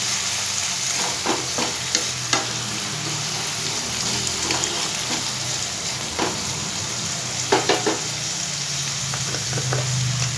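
Chopped tomatoes and onions sizzling in oil in a non-stick kadhai, cooking down until soft, while a wooden spatula stirs them, scraping and tapping against the pan now and then.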